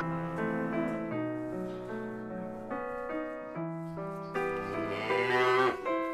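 A cow mooing once, a drawn-out call starting past the middle and ending shortly before the close, over soft piano music.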